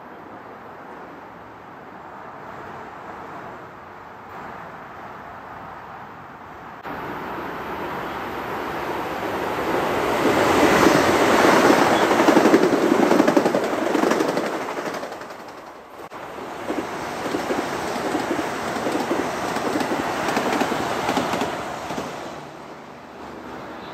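Metro-North M8 electric multiple-unit train passing close on the near track, a rumble with rapid rattling from the wheels on the rails that builds to a loud peak and then fades. A second M8 train then passes with the same rattling rumble, dying away near the end.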